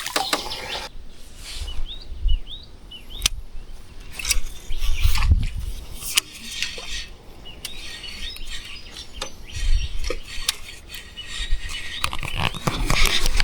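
Birds chirping in short calls, with scattered sharp clicks and knocks and bursts of low rumble.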